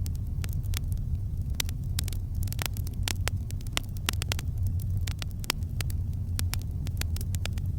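Campfire crackling: frequent sharp, irregular snaps and pops over a steady low hum.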